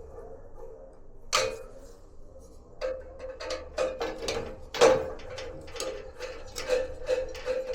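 Irregular clicks and knocks of tools and metal parts being handled while a gas water heater is taken apart for cleaning, two sharper knocks standing out, over a faint steady hum.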